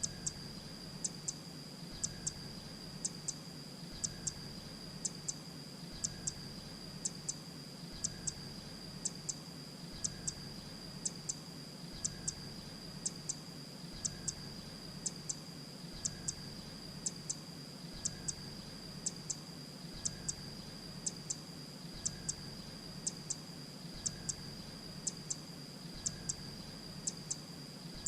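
Grey-breasted prinia calling on a repeating loop: short, very high, dry notes in quick groups of two or three, about one group a second, over a steady high whine.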